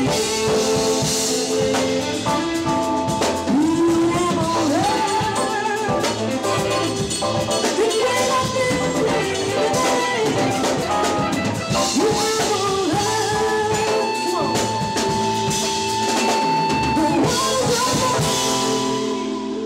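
Live jazz band playing, with drum kit and rimshots under sustained chords and a lead melody that bends and slides in pitch.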